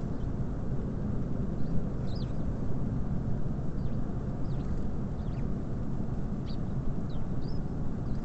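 Small birds at a feeder, tits among them, giving about ten short, thin, high calls that drop in pitch, over a steady low rumble.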